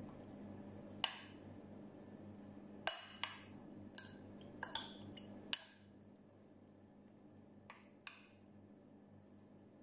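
Metal spoon clinking against a glass mixing bowl while chicken pieces are stirred in a wet marinade: about nine quiet, irregular clinks, most of them in the first six seconds.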